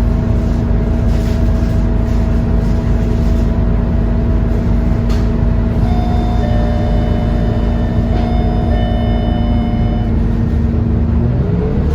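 Scania K230UB bus's diesel engine idling with a steady hum inside the bus. About halfway through, an electronic beep of several tones sounds for about four seconds. Near the end the engine revs up, rising in pitch as the bus pulls away.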